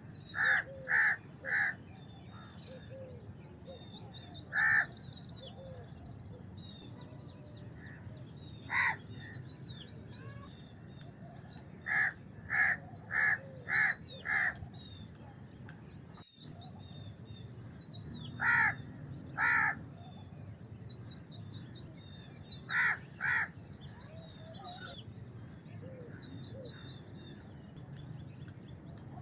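House crows cawing: loud, harsh caws in bursts of one to five. Small birds chirp and twitter continuously in the background.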